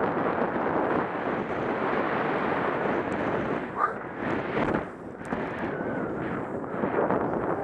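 Wind rushing over the microphone while skiing fast through deep powder snow, a steady rough noise that swells and dips a few times around the middle.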